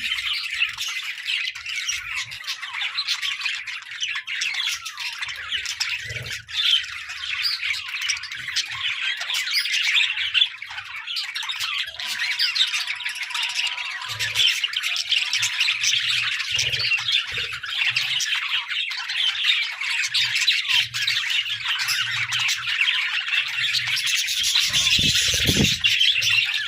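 A flock of budgerigars chattering, with many short calls overlapping without a break.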